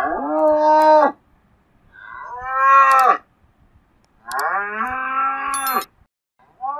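Ox mooing: long, drawn-out moos of about a second each, with short pauses between them. Three are heard in full, and a fourth begins near the end.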